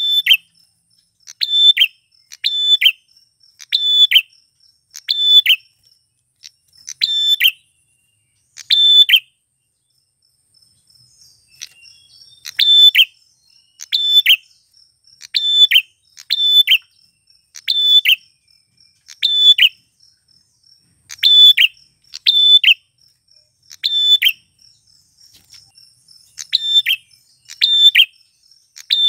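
A male prenjak klawu (a prinia) calling over and over: short, sharp, loud notes about one to one and a half seconds apart, often in pairs. There is a pause of a couple of seconds about a third of the way in. A faint, steady insect trill runs underneath.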